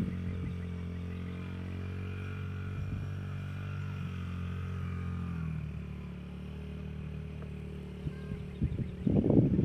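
Dirt bike engine running steadily at idle, settling to a slightly lower pitch about halfway through. Loud, rough bursts come near the end.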